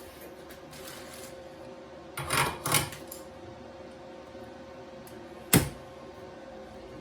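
Two short bursts of clatter a little over two seconds in, then one sharp knock near the end, over a steady faint hum.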